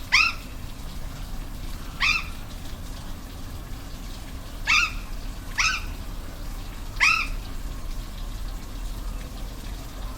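Five short, sharply rising calls from an animal, spaced irregularly over about seven seconds, over the steady rush of a waterfall.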